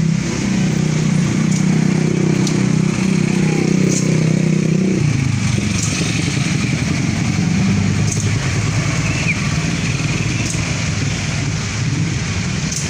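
Motorcycle engines running in close traffic. One steady engine note cuts back about five seconds in, and a rougher engine sound carries on.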